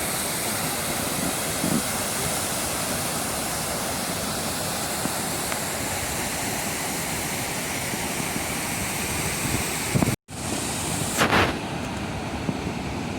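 Waterfall rushing with a steady roar, broken by a brief dropout about ten seconds in.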